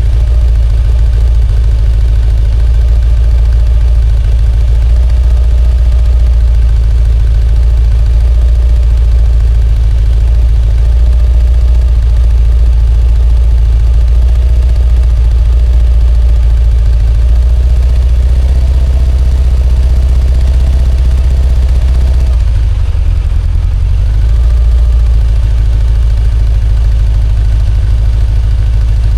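Kawasaki ZZR1100's inline-four engine idling steadily, its note changing about two-thirds of the way through. This engine has started blowing heavy white smoke, which the owner puts down to oil getting past the valve stem seals or piston rings, or coolant leaking into the cylinders.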